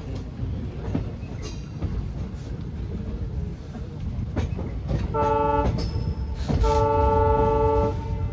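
Train horn sounding twice, a short blast then a longer one about a second later, over the low rumble and knocking of a train.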